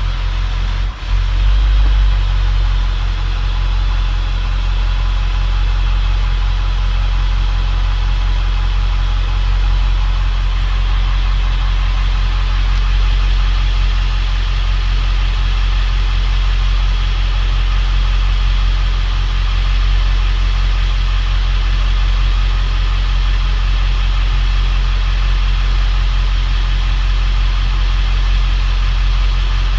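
7.3L Powerstroke V8 turbo-diesel engine idling steadily, after a brief dip and surge about a second in as it catches and settles.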